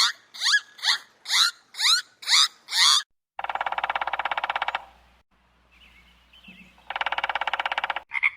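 A frog's trilling call, a rapid pulsing buzz of about a second and a half, given twice about three seconds apart. Before it come about three seconds of short, squeaky rising chirps repeating about twice a second.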